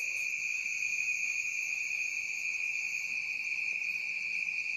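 Crickets chorusing, a steady high-pitched trill that runs on without a break, with fainter higher-pitched trilling above it.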